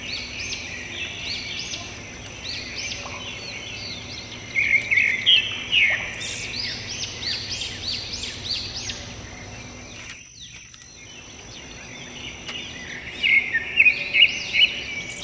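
Small birds chirping and singing in quick repeated notes, livelier about five seconds in and again near the end, over a faint steady high-pitched tone. Everything drops away briefly about ten seconds in.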